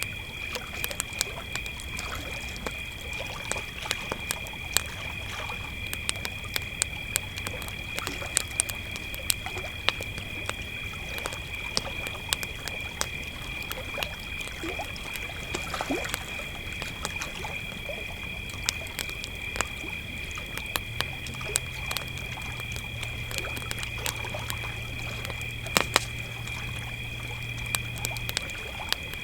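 Crickets chirping in a steady, unbroken chorus at two high pitches, over a wood campfire crackling with frequent sharp pops.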